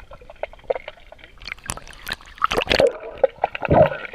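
Swimming-pool water splashing and gurgling in irregular bursts, with the loudest splashes about two and a half seconds in and again near the end.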